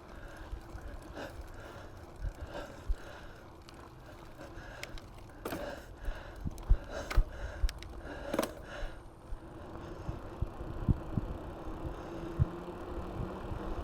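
Mountain bike in motion, with sharp knocks and rattles from bumps in the ride. Over the first nine seconds or so a rushing sound repeats about every two-thirds of a second, and a steady low hum comes in later.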